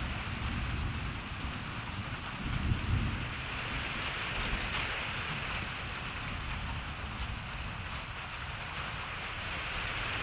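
Steady rain falling, with a low rumble of thunder swelling about three seconds in.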